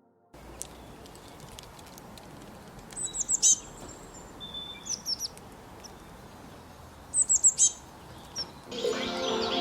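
Songbird calling in short runs of four or five quick, high, falling chirps, twice, with a shorter pair in between, over a steady background hiss. Music with sustained tones fades in near the end.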